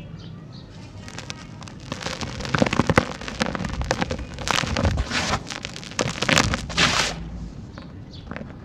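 Dry, dusty sand-cement chunks crumbling: a dense run of gritty crackles and crunches that starts about a second and a half in and stops a little before the end.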